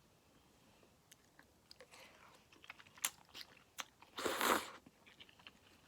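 Close-up eating sounds of ramen: scattered small wet mouth clicks of chewing, then one short loud slurp of noodles about four seconds in.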